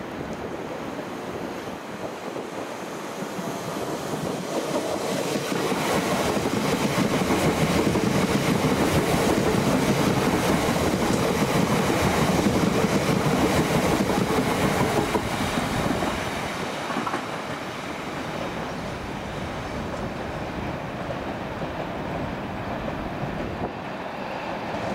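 Electric suburban train passing close by on the track, its running noise building over a few seconds, staying loud with a steady hum for about ten seconds, then falling away to a lower rumble.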